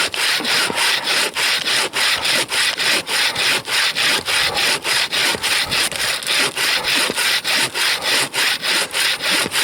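Bow saw cutting through a frozen fir trunk, with steady, even back-and-forth strokes at about three to four a second.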